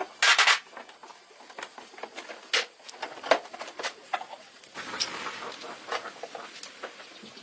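Restoration work on a motorcycle part: a short hissing burst about a third of a second in, then scattered light clicks and taps of tools or parts being handled.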